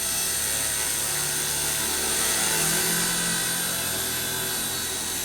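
Small four-channel, single-rotor electric RC helicopter with brushed motors, running with a steady high motor whine and rotor hum that grows a little louder around the middle.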